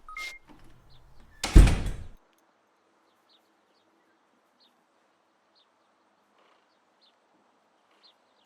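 A brief, loud burst of rushing noise about a second and a half in, then near silence.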